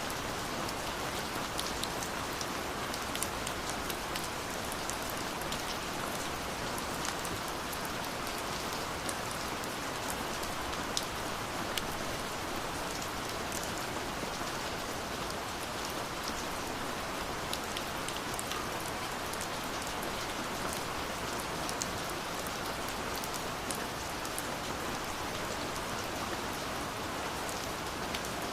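Steady rain falling, a continuous hiss of rainfall with many separate drops ticking on a surface throughout.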